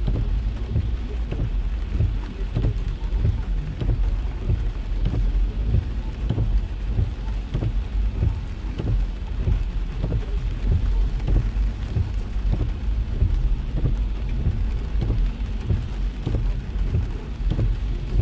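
Heavy rain drumming on a car's roof and windshield, heard from inside the cabin: dense, irregular drop hits over a steady low rumble of the moving car.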